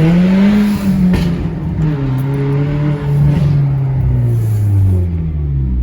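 Turbocharged four-cylinder engine of a Hyundai Genesis Coupe 2.0T, revving up and then dropping in pitch through gear changes, heard from inside the cabin. When the throttle closes, the Paisley blow-off valve vents in short whooshes, the first just after a second in.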